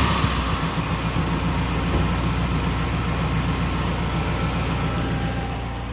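Turbocharged Honda Fit GD3's 1.5-litre four-cylinder engine idling in neutral, a steady drone that eases a little quieter toward the end.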